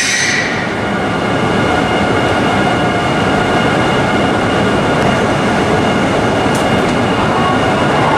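E6 series Shinkansen train creeping to a stop at a platform: high brake and wheel squeal fades out about half a second in. After that the halted train gives a steady hum and hiss, with several thin high whining tones held over it.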